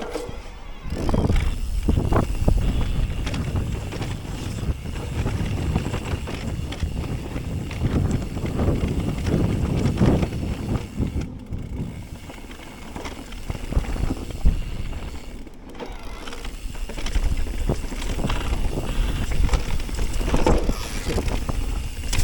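Electric mountain bike riding over rough trail: tyres rumbling on the ground, the frame and parts rattling and knocking over bumps, and wind buffeting the microphone.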